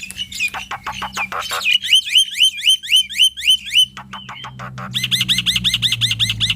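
Male jalak putih (black-winged myna) singing loudly. A burst of harsh clicks leads into a string of rising whistled notes at about four or five a second. Near the end comes a faster run of the same rising notes, with more harsh clicks before it.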